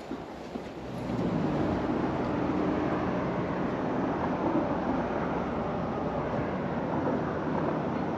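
Steady mechanical rumble of a vehicle or engine, starting abruptly about a second in and holding at an even level.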